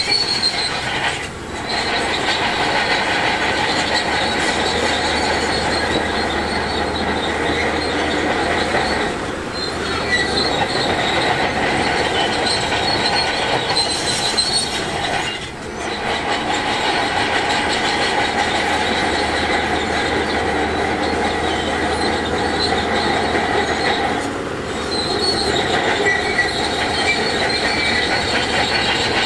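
Heavy diesel earthmoving machinery working steadily, with a high metallic squeal and clanking over the engine, typical of a crawler bulldozer's steel tracks. The sound dips briefly a few times.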